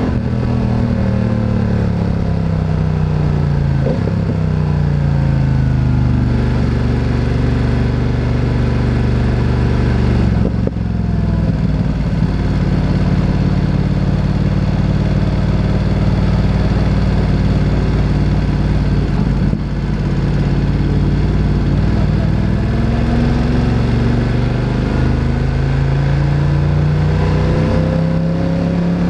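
Motorcycle engine heard while riding: the revs fall over the first few seconds, then it runs at a steady pitch with two short breaks, like gear changes, about a third and two thirds of the way through, and revs rise again near the end as the bike accelerates.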